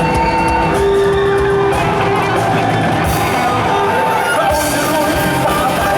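A live band playing loud amplified music, with sustained instrumental notes throughout.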